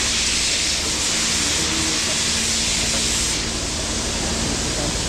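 A loud, steady pressurised hissing spray, as a Caterpillar D8R transmission valve body is sprayed clean, easing off about three seconds in. A steady low hum runs beneath.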